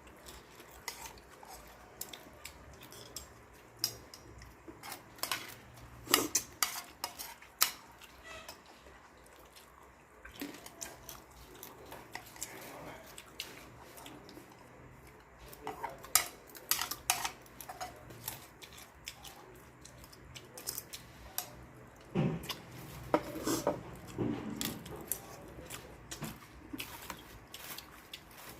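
Cutlery clinking and scraping against plates and bowls during a meal, in irregular sharp clicks that come in little clusters.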